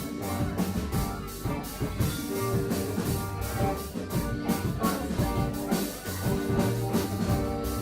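A rock band playing live: a drum kit keeping a steady beat under guitar.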